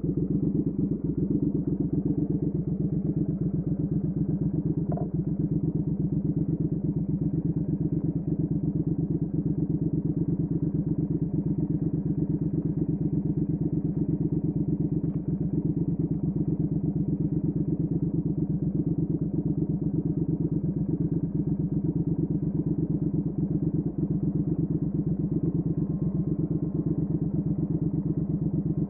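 2019 Triumph Speed Twin's 1200 cc parallel-twin engine running steadily through a Weslake Shorty Pro exhaust, a low, even exhaust beat.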